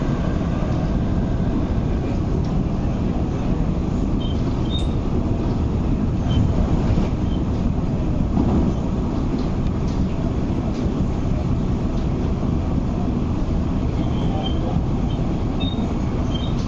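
An MTR East Rail Line MLR electric train, built by Metro-Cammell in the 1980s, running at speed, heard from inside the car: a steady rumble of wheels on rail, with a few faint, short, high squeaks now and then.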